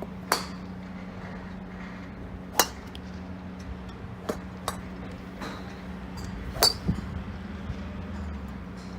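Golf clubs striking balls on the practice range: about six sharp, irregularly spaced impacts with a brief ring, over a steady low hum.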